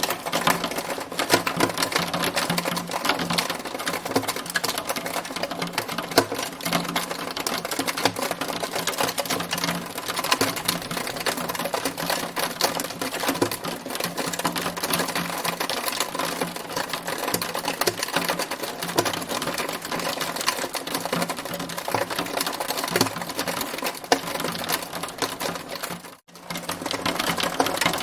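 Hailstorm: a dense, rapid clatter of hailstones striking a hard surface, over a low steady hum. The sound cuts out for a split second near the end.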